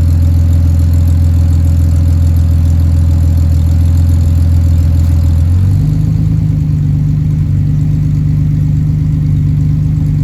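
Ford AU Falcon's 4.0 litre inline-six engine running steadily, its engine speed stepping up to a higher, steady pitch a little over halfway through.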